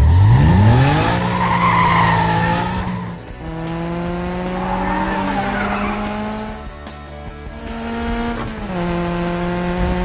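Cartoon vehicle engine sound effect: the engine revs up in the first second, with a squeal over it for a couple of seconds, then runs at a steady pitch that steps up about two-thirds of the way through and drops back near the end.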